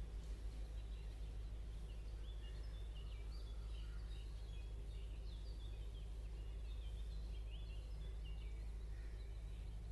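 Steady low hum in the room, with small birds chirping repeatedly in the background.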